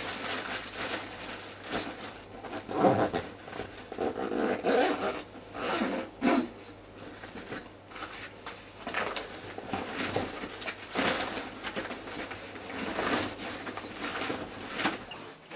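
Irregular rustling, knocking and handling noises of belongings being gathered and packed, over a faint steady low hum.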